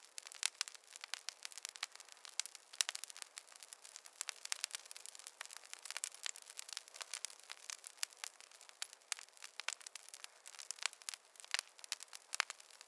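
Campfire crackling: a dense, irregular run of sharp pops and snaps from burning wood over a soft hiss.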